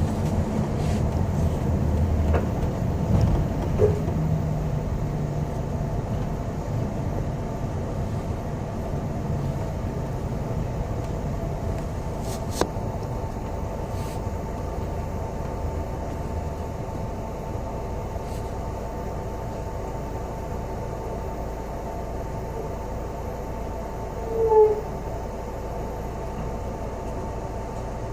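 Inside a moving city bus: steady cabin noise of engine and road with a faint steady whine, the low rumble easing off over the first fifteen seconds or so. A single click about 12 s in and a brief higher sound near 24 s.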